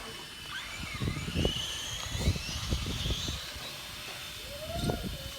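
High-pitched motor whine of 1/10-scale R/C touring cars, rising and falling in pitch as the cars speed up and slow down. Irregular low thumps sound under it.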